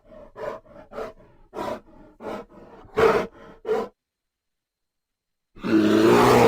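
A big cat calling. First comes a run of short grunts, about two or three a second, for roughly four seconds. After a pause, a loud roar starts near the end.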